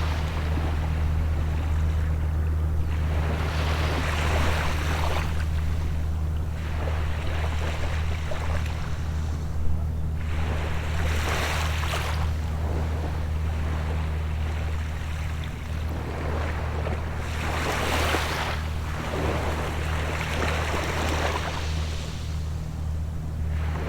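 Small sea waves washing in and draining back, swelling into a hissing surge every few seconds. Under them runs a steady low engine drone, which fits a boat out on the water.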